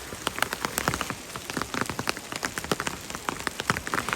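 Rain falling, with many separate drops striking close by as dense, irregular taps over a steady patter.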